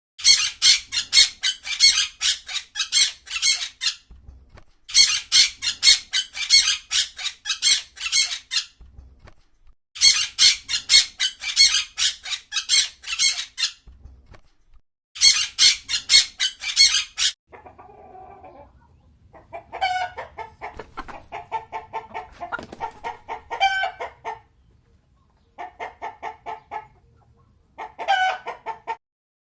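Chickens calling in bursts. First come four runs of rapid, high-pitched repeated calls, each a few seconds long. From about halfway through, lower clucking calls come in shorter groups.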